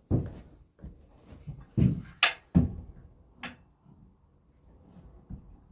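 A handful of separate knocks and clunks with one sharp click about two seconds in, from tools and lumber being handled and set up for a saw cut; after that only a faint low hum.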